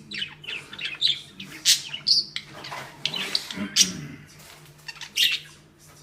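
Budgerigar chirping in a rapid string of short, sharp calls, with several louder shrill notes scattered through.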